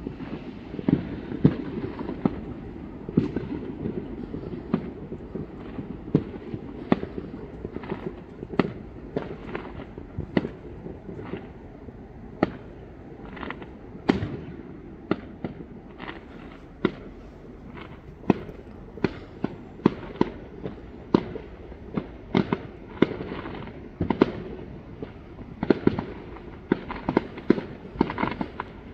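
Fireworks going off: a constant background of distant bangs and crackles, with many sharper, closer bangs at uneven intervals, sometimes several a second.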